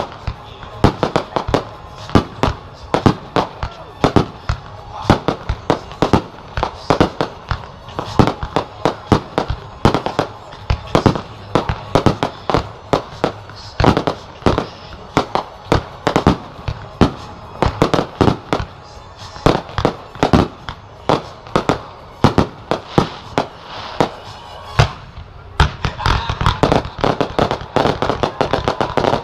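Fireworks display: a rapid, continuous run of sharp firework bangs, several a second, giving way near the end to a denser crackling barrage.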